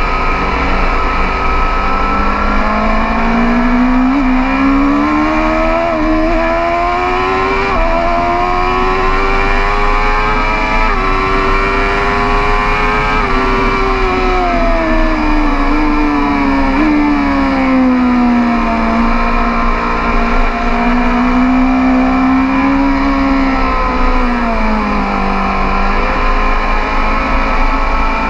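BMW S 1000 RR's inline-four engine heard onboard at track speed: revs climb through the gears with quick upshifts, then fall away as it slows with a downshift, hold steady, dip again and pick up near the end.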